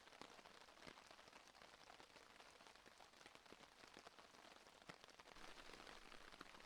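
Faint steady rain falling on a hammock tarp overhead, an even hiss scattered with the ticks of single drops.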